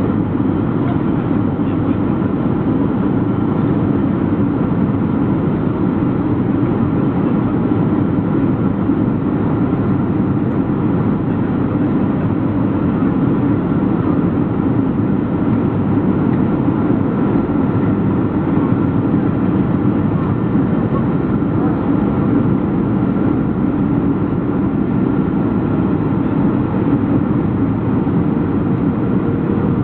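Steady cabin noise of a Boeing 737-400 in flight: its CFM56-3 turbofan engines and the airflow make a constant, even rumble, with faint steady whine tones above it.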